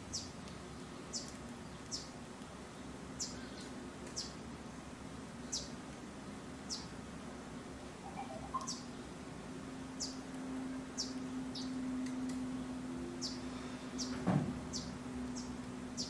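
Small birds chirping: short, high chirps repeated roughly once a second. About halfway a low steady hum comes in, and near the end there is a single knock.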